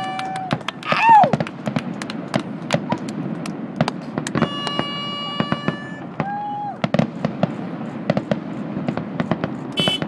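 Fireworks display: a dense run of crackles and bangs from aerial shells. Long horn blasts sound at the start and again about four seconds in, and a shout rises and falls about a second in.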